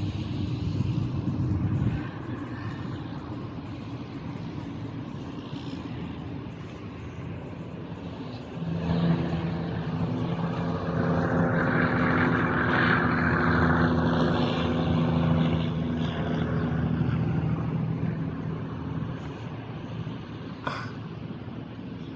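An engine passing by: it comes in about nine seconds in, is loudest around twelve to fourteen seconds, and fades away toward the end. A short sharp click sounds near the end.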